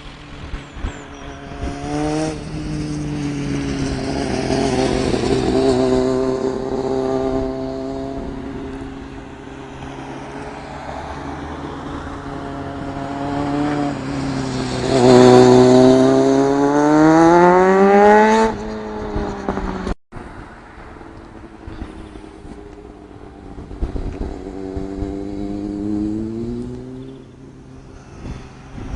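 1998 Kawasaki ZX-6R's inline-four engine through an aftermarket Urban GP exhaust, revving up and down as the bike is ridden. The loudest part is a long climb in pitch about halfway through that cuts off suddenly, and the engine climbs again near the end.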